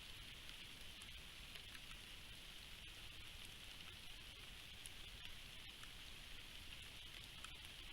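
Faint, steady rain falling, with scattered small ticks of drops, picked up by a trail camera's microphone.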